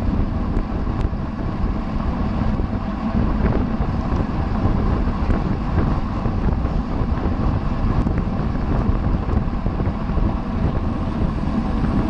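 Wind buffeting the microphone of a camera riding along on a racing bicycle at speed: a steady, loud rush heaviest in the low end.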